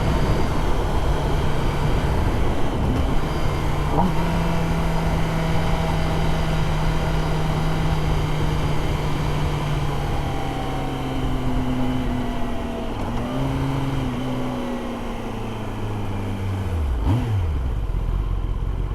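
Kawasaki ZX10R's inline-four engine running at steady cruising revs under wind rush. The revs drop in steps in the last few seconds as the bike slows.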